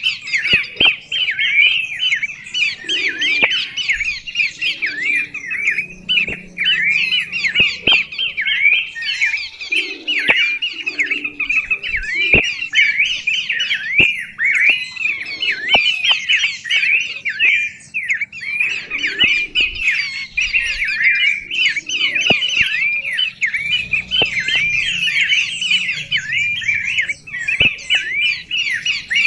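A songbird singing a continuous, rapid chattering song of quick chirps and short up-and-down whistled notes, with a few sharp clicks scattered through it.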